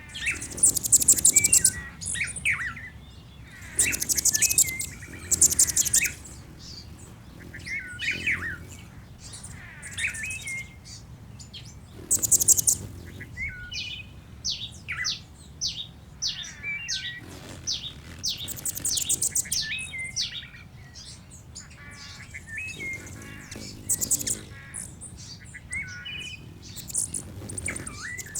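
Songbirds chirping and calling, with short warbling phrases and, every few seconds, a very high, fast trill lasting about a second.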